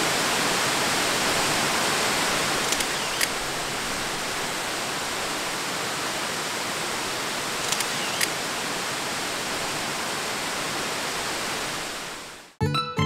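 Steady, even rush of Kuang Si Waterfall's cascades, broken by two pairs of short clicks about three and eight seconds in. Near the end the water sound fades out and acoustic guitar music begins.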